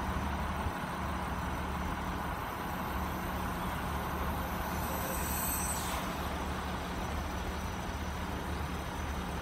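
Car engines idling steadily with a low hum, and a brief high hiss about five seconds in.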